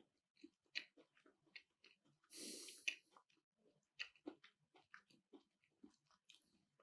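Faint close-up chewing of a piece of keto nigiri sushi: small wet mouth clicks and smacks, with a short breath through the nose about two and a half seconds in.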